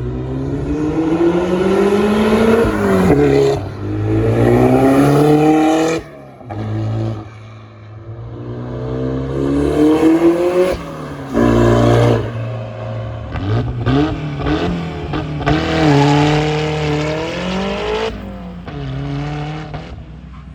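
1993 Toyota MR2 Turbo's 3S-GTE turbocharged four-cylinder through a 3-inch straight-pipe exhaust, revving hard several times. Each pull climbs in pitch and then breaks off sharply, with a few short throttle blips in between.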